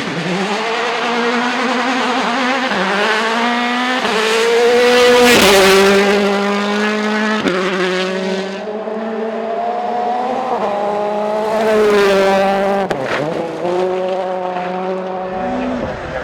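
Rally car engines revving hard at full throttle and shifting up through the gears, the pitch climbing and dropping back at each shift. It is loudest about five to six seconds in and again around twelve seconds, as cars pass at speed.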